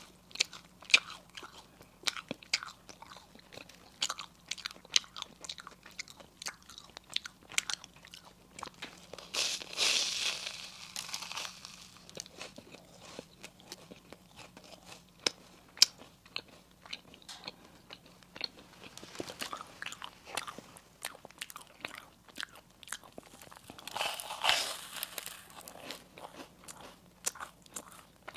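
Close-up eating sounds: crisp pastry being bitten and chewed, with many sharp crunching crackles. There are two denser, longer stretches of crunching about 10 and 24 seconds in.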